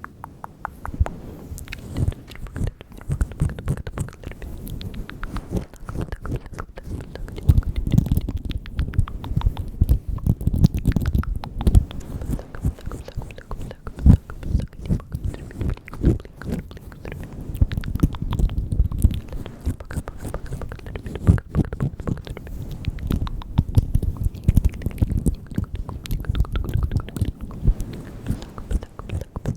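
Close-miked ASMR mouth sounds: a dense, irregular run of clicks and smacks from lips and tongue.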